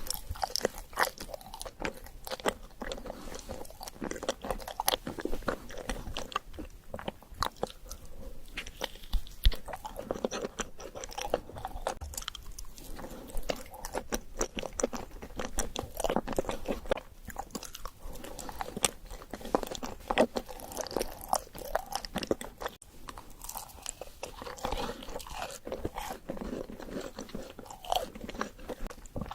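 Close-miked crunchy chewing and biting of an Oreo chocolate dessert: a continuous run of crackling crunches, with a few sharper, louder bites standing out.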